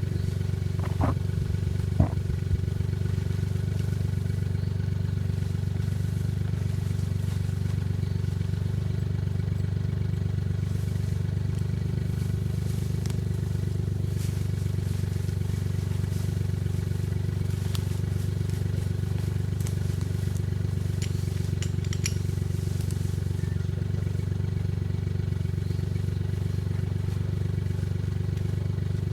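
Suzuki Jimny JA11's engine idling steadily, with no revving. A few light clicks sound over it about a second and two seconds in.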